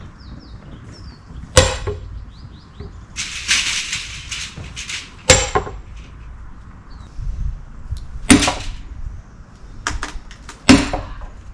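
Sledgehammer striking a steel splitting wedge driven into an oak round: four sharp, ringing blows a few seconds apart.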